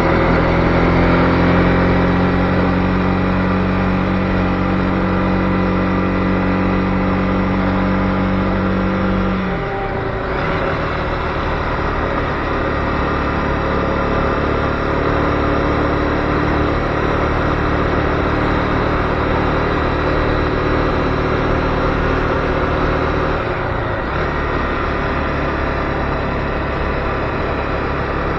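Honda CB250R's single-cylinder engine running steadily on the road. The engine note drops off briefly about ten seconds in and again near the end, then carries on at a steady pitch.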